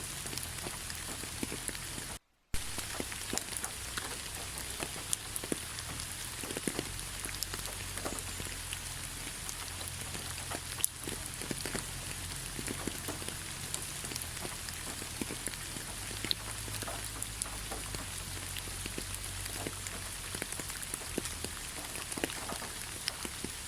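Steady rain falling on a forest road, an even hiss scattered with distinct drops ticking. About two seconds in the sound cuts out briefly and then resumes.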